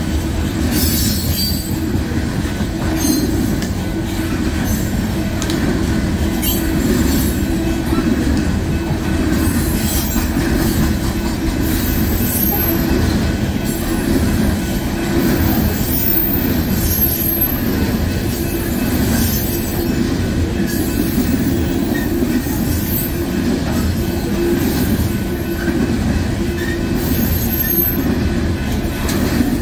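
A train rolling past: a steady low rumble of railcars on the track, with brief high wheel squeals now and then.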